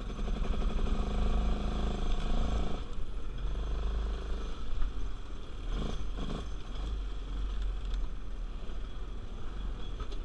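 ATV engine running under throttle, its pitch plainest in the first three seconds, then blending into a noisier mix over a steady low rumble.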